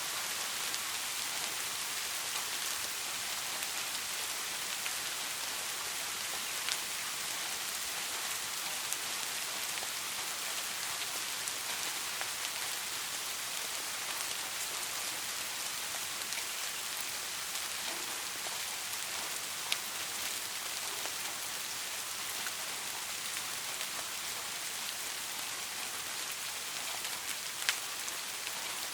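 Steady rain falling, an even hiss of drops with a few sharper single drips standing out now and then.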